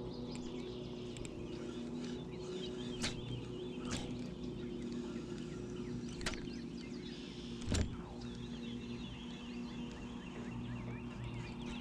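Calm lake ambience: birds chirping, over a steady low hum. A few sharp clicks, and one louder knock about eight seconds in.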